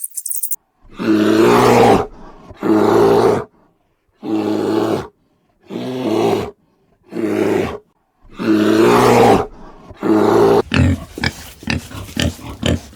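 A large animal calling repeatedly: about seven loud, pitched calls of roughly a second each, with short silences between them, then quick short grunts starting near the end.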